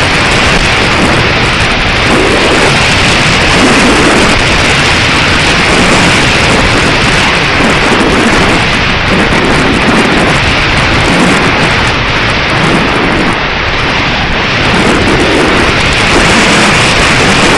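Strong wind buffeting the microphone: loud, continuous wind noise with uneven low gusts swelling and easing.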